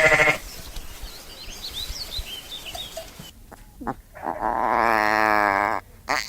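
Animal calls: faint chirping in the first few seconds, then one long, drawn-out call of about two seconds near the end.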